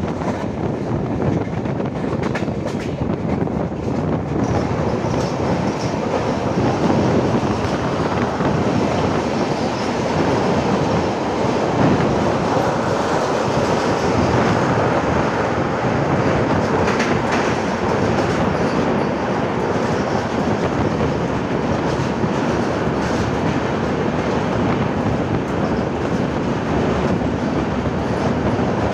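Passenger train running along the track: steady noise of the moving train's wheels on the rails, unbroken throughout.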